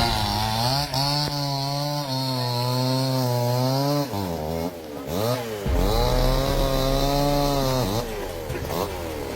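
Chainsaw engine running at high speed with a wavering pitch. The speed drops and picks up again about four to six seconds in.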